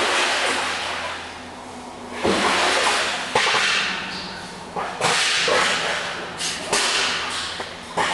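Kayak paddle strokes in the water, each a splashing swish, coming about every two to three seconds.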